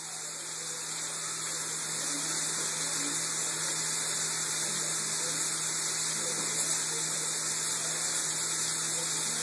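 Cubed bacon sizzling in a frying pan over medium heat: a steady hiss that grows slightly louder over the first couple of seconds.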